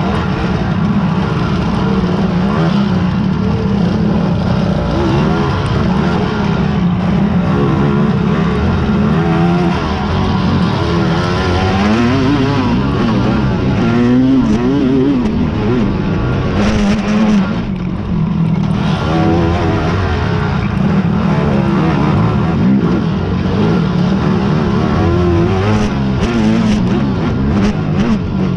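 Racing quads (ATVs) running hard in a harescramble, several engines revving up and down, the pitch rising and falling as the riders work the throttle, loudest about halfway through.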